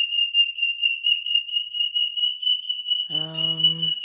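Cockatiel giving a loud, piercing high-pitched call over and over without a break, about five pulses a second on one unchanging pitch. Near the end, a short low voice sounds beneath it.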